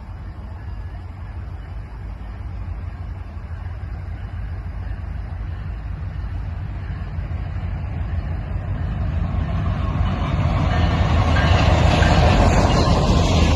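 Canadian Pacific Holiday Train rolling past: a steady low rumble that grows louder over the last few seconds as wheel and rail noise rises.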